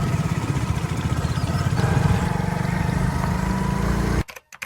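Engine running steadily with a rapid, even beat, cutting off abruptly about four seconds in.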